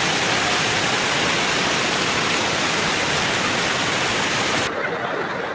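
Steady, loud water noise of a flood scene, such as heavy rain or fast-running floodwater. About five seconds in it cuts abruptly to a quieter, duller water sound.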